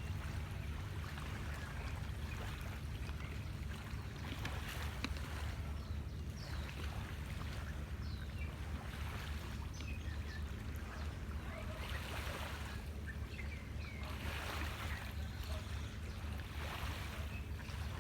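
Sea waves washing onto the shore in repeated surges over a steady low rumble, with a few faint bird chirps.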